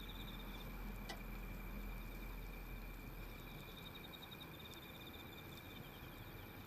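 Insects chirping in rapid pulsed trills that come and go, over a steady high insect drone. A few faint, sharp crackles come from the wood fire, the clearest about a second in.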